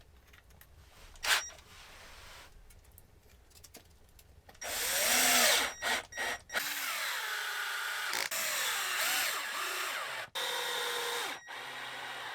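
A handheld power tool running in several bursts with short stops, its motor pitch dipping and rising as the load changes. Before it, a few quiet seconds with a single sharp knock about a second in.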